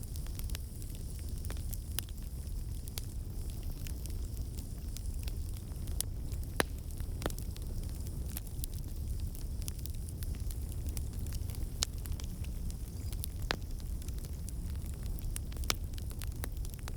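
Wood fire crackling in a fireplace: a steady low rumble of flames with scattered sharp pops and snaps every second or two.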